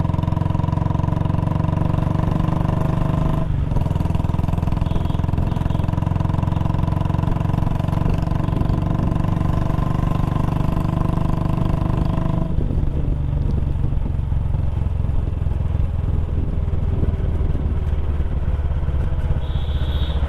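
Royal Enfield Classic 350's single-cylinder engine and exhaust running steadily while riding. There is a brief dip about three and a half seconds in, and about twelve seconds in the note drops lower and thinner for the rest of the stretch.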